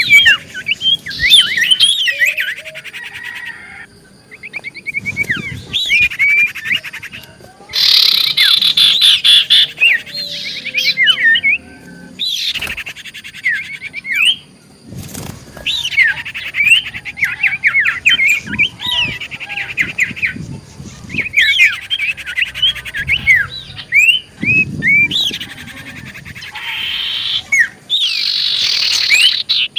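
Common iora singing energetically, in repeated bouts of rapid chirps, trills and whistled notes with short pauses between them. This is the kind of loud, lively song used as a lure to set other irora-keepers' birds singing.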